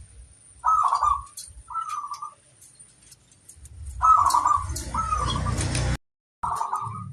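Zebra dove (perkutut) cooing: a series of short, rolling coo phrases, about five in all. A rustling noise runs under the later ones, and the sound cuts out abruptly for a moment near the end before the cooing resumes.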